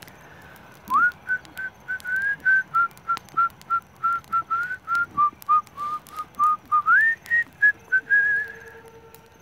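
A whistled tune of about twenty short, evenly paced notes. It begins with an upward slide about a second in, dips lower in the middle and slides up again near the end. Sharp crackles from a burning grass campfire sound throughout.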